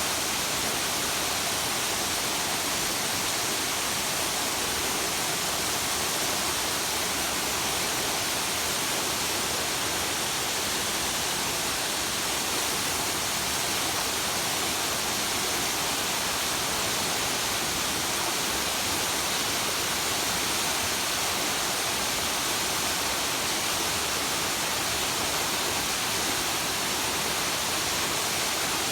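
A waterfall rushing steadily, a constant roar of falling water with no change in level.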